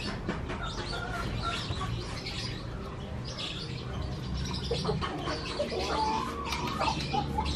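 Bird calls: clucking like a chicken, with a drawn-out call about six seconds in, and small birds chirping.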